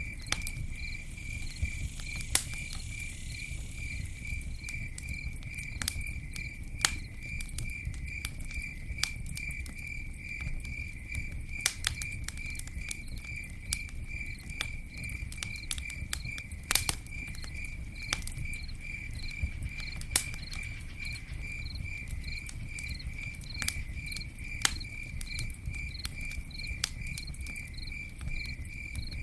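Campfire burning, with sharp crackles and pops at irregular intervals over a low rumble, while a cricket chirps steadily, a few chirps a second.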